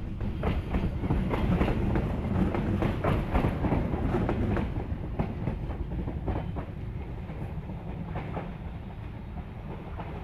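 Passenger coaches rolling past on the adjacent track, their wheels clicking rapidly over the rail joints. The sound is loudest in the first half and fades as the last coach draws away.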